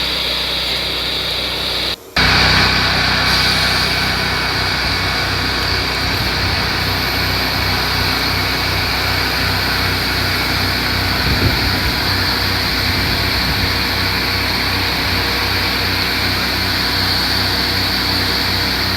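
Dual Wash Pro pressure washer's engine and pump running steadily, with a brief cut-out about two seconds in.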